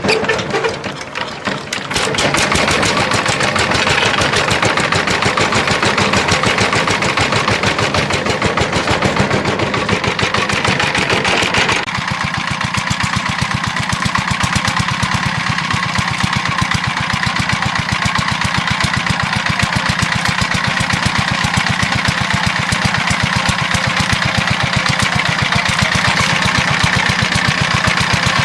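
Small engine running steadily with a rapid, even beat. It settles into its run about two seconds in, and its tone shifts about twelve seconds in.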